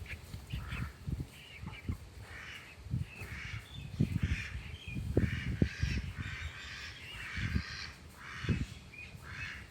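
Repeated short, harsh, raspy bird calls, about a dozen squawks in all, over irregular low thuds.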